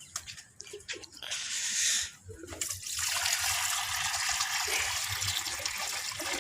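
Water being poured into the pigeons' drinker. A few light knocks come first, then a short splash about a second and a half in, then a steady run of water from about three seconds on.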